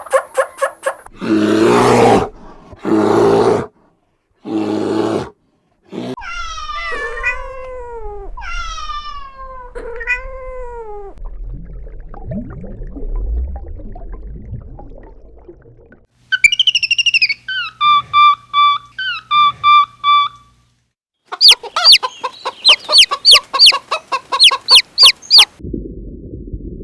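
A run of short, separate animal calls from different clips: a few noisy bursts, then three falling calls, then steady high notes, then a fast series of sharp calls.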